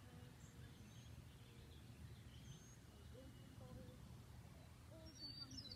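Near silence: faint low background rumble with a few faint bird chirps, and a slightly clearer falling chirp about five seconds in.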